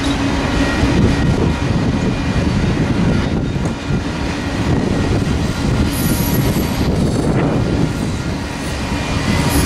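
Freight train's multilevel autorack cars rolling past over the rails: a steady, loud rumble of steel wheels on track. Brief high-pitched wheel squeals come through about six seconds in and again near the end.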